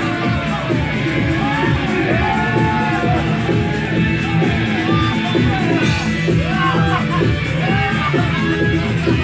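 Rock band playing live and loud: drums with steady cymbal hits, electric guitars and vocals.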